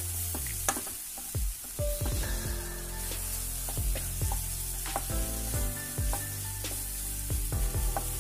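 Onion-tomato masala with gram flour sizzling in oil in a nonstick pan, stirred with a spatula that scrapes and knocks against the pan again and again. Background music with steady held tones plays underneath.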